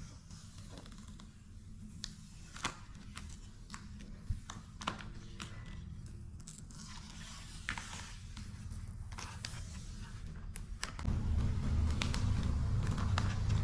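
Scattered light scrapes, crinkles and clicks from handling a vinyl decal, its backing and application tape. A low rumble underneath grows clearly louder about eleven seconds in.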